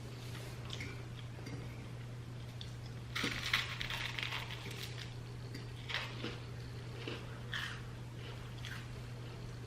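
Eating sounds: a fork or spoon clicking against a plate and chewing, with a denser, louder stretch of scraping and crunching about three seconds in. A steady low hum sits underneath.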